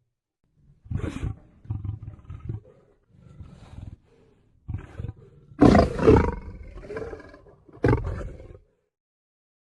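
Lion roaring: a series of deep roars and grunts, the longest and loudest about halfway through, ending about a second before the end.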